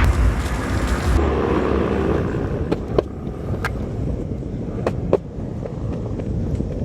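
Skateboard wheels rolling over street pavement, a steady rumble, with several sharp clicks in the second half.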